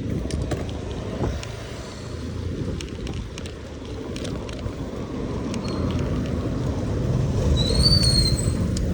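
Wind rumble on the microphone and road noise from a bicycle in motion, swelling louder toward the end. Near the end there is a brief high-pitched squeal.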